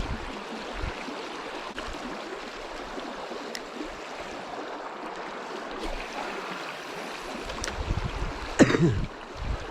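Steady rush of swift river water flowing over a rock riffle. Near the end, wind starts buffeting the microphone with a low rumble, and there is a brief louder burst.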